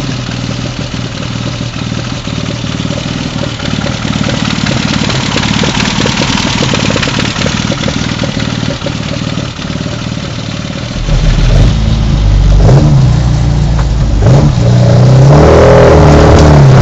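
Classic Mini's 1380 A-series engine running steadily, then revving harder from about eleven seconds in, its pitch rising and falling repeatedly.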